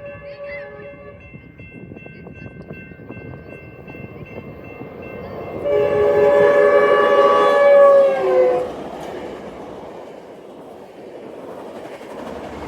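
Train horn sounding over the steady rumble of a passing train: a short blast in the first second, then a loud, long chord of several notes about six seconds in that lasts some three seconds, its pitch dropping as it ends.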